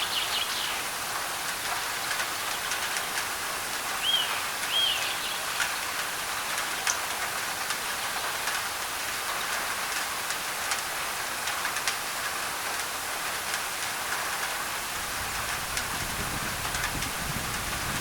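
Steady heavy rain on a thin tin roof, with many small drop ticks. Two short bird chirps sound about four and five seconds in, and a low rumble of distant thunder comes in near the end.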